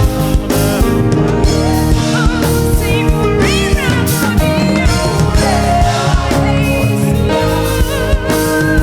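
Live band playing a worship song: drums, bass and sustained keyboard chords, with a voice singing a melody over them.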